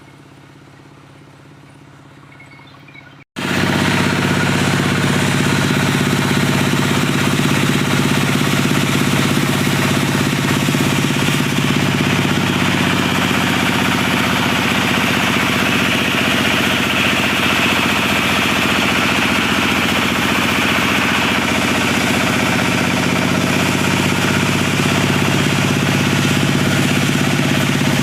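Diesel engine driving a wood-cutting saw, running steadily and loudly. It starts abruptly about three seconds in after a quiet stretch, and a higher hiss swells in the middle.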